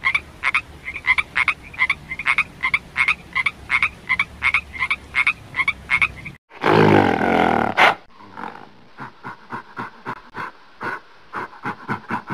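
Tree frog calling: a quick, even series of short croaks, about three a second. About six and a half seconds in, the calls stop and a loud, longer sound takes over for over a second, followed by softer short pulses.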